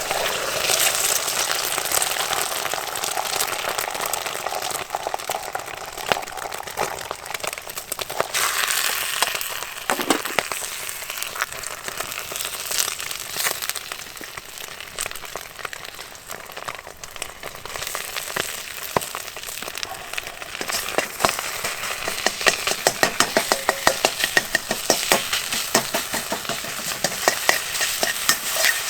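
Fried rice sizzling in hot lard in a hand-hammered iron wok, a steady hiss throughout. In the last third a spatula scrapes and clacks against the wok in a quick rhythm, a few strokes a second, as the rice is stir-fried.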